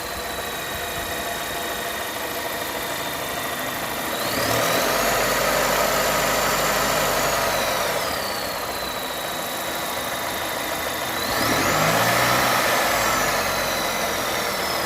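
2021 Volvo S90 B4 mild-hybrid engine idling and blipped twice, with a high-pitched whistle beside the engine sound that climbs in pitch with each rev and falls back at idle. The owner has ruled out the PCV valve, oil separator, alternator, belt pulleys, crank seal, balance shaft, timing belt and damper pulley, and says it is not the turbo; the cause is unknown.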